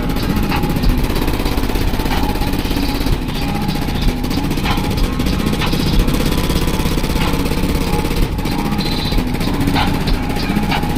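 Car audio system with four B2 Audio 21-inch subwoofers playing deep bass at high volume.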